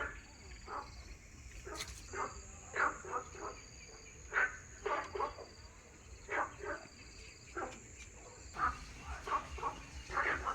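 Short animal calls repeated every second or so, over a steady high insect trill.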